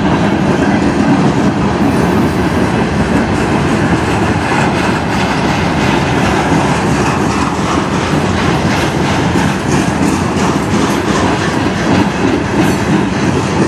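Freight train cars rolling past close by: a steady rumble of steel wheels on rail, with repeated clacks of the wheels over rail joints that grow more distinct in the second half.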